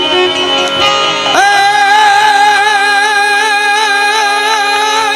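Gujarati devotional folk song for the mother goddess, with a singer and instruments over a steady drone. About a second and a half in, a long high note with a wavering vibrato comes in and is held.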